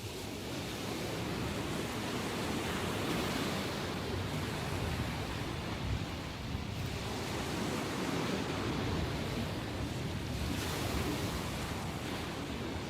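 Ocean surf breaking and washing in a steady rush, the sea still rough after a typhoon, with swells in the surge around a second in and again near the end.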